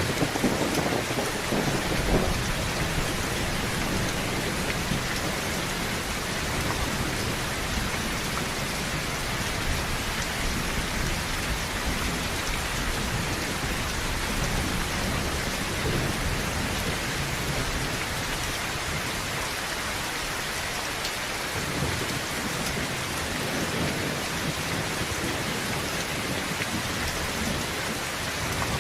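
Heavy rain drumming steadily on a tin roof, with a low roll of thunder in the first couple of seconds.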